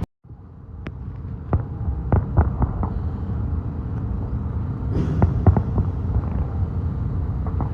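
Fireworks going off: irregular sharp bangs over a steady low rumble, with a cluster of bangs about five seconds in.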